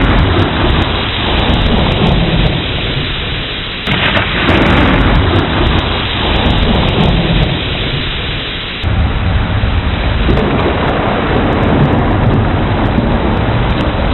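Thunderstorm: steady heavy rain with deep rolling thunder rumbling underneath. The sound shifts abruptly twice, about four and nine seconds in.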